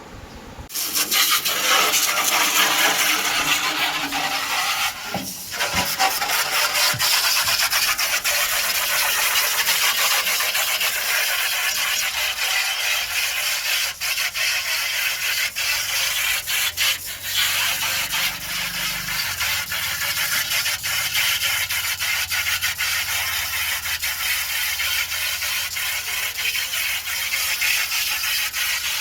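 Steady scraping and rubbing on washing-machine drum parts, as a part is cleaned or sanded during a drum-bearing repair, starting abruptly about a second in and going on with many small clicks.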